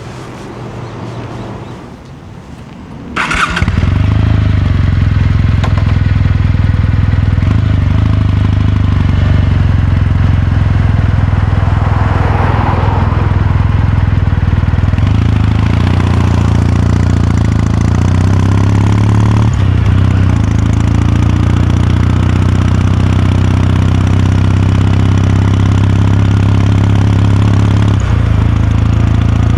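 Kawasaki Meguro K3's air-cooled parallel-twin engine fires up about three seconds in, then runs at a steady idle.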